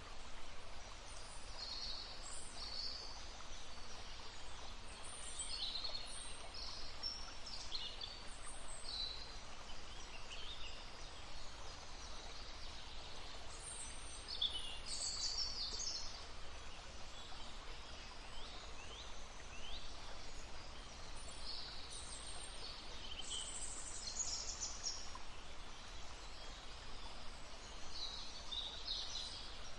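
Several small songbirds singing and calling in short, high chirps and trills, over the steady rush of a brook.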